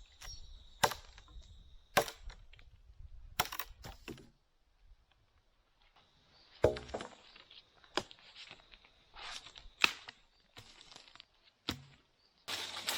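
Chopping blows into a dead embaúba (Cecropia) trunk: sharp woody cracks, about eight strikes, each a second or two apart.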